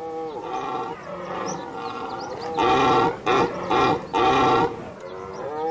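Red deer stag roaring in the rut: a run of hoarse, drawn-out bellows, with three loud ones in quick succession about halfway through.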